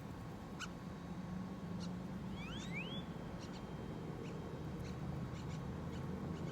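Small birds calling: scattered short high squeaky chirps and a couple of quick rising whistled calls about two and a half seconds in, over a steady low hum.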